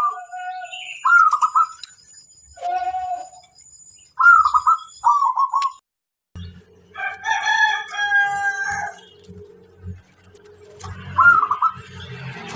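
Zebra doves (perkutut) cooing in short, trilled phrases, heard several times. A rooster crows once for about two seconds in the middle.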